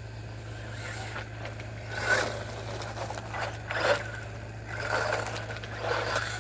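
Small electric RC model, most likely the WLtoys buggy, driven in short throttle bursts: a motor whine with scraping from the ground, several bursts a second or two apart, the longest near the end.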